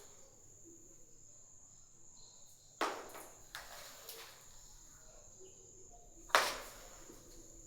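Steady high-pitched chirring of crickets, with two sudden sharp knocks: one about three seconds in and a louder one about six seconds in.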